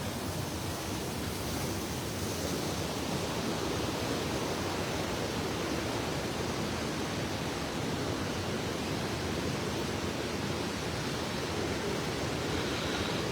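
Steady rush of swift, fast-flowing river water.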